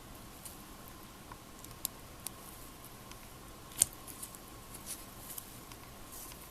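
Small wood fire crackling in a stainless mini fire pit: scattered faint ticks and crackles, with one sharper snap about four seconds in.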